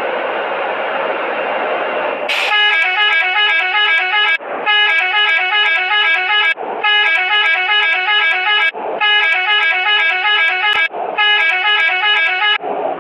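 Vehicle running, then from about two seconds in a loud musical horn plays a short tune over and over, about five times, each phrase about two seconds long with a brief break between.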